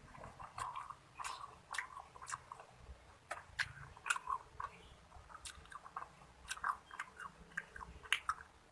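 Close-miked chewing of food, with irregular wet smacks and crisp clicks several times a second.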